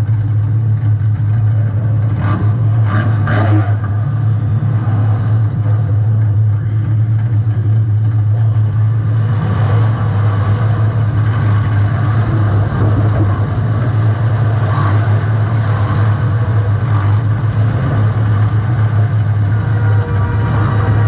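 Demolition derby compact car's engine running loud and steady, picked up by a camera mounted on the car, with a few knocks and clatters about two to three and a half seconds in.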